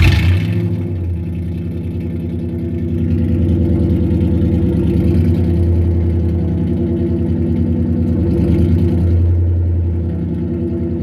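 1997 Ford F-150 engine running through straight pipes with the mufflers removed, just after starting and settling into a loud idle. It picks up a little about three seconds in and eases back near the end.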